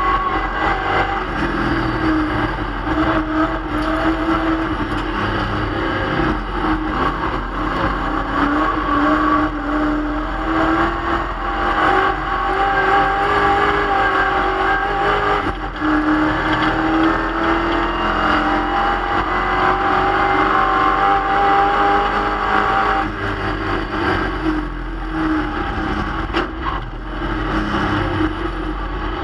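1965 Plymouth Barracuda race car's engine running hard at speed, heard from inside the stripped cabin. The engine note rises and falls as the driver accelerates and lifts for corners, with a brief lift about halfway through and a softer, lower stretch near the end.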